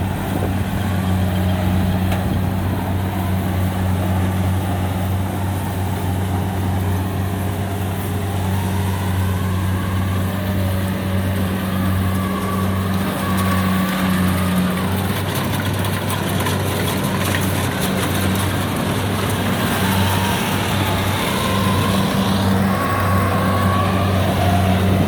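Rice combine harvester's diesel engine running at a steady, even speed: a constant low hum.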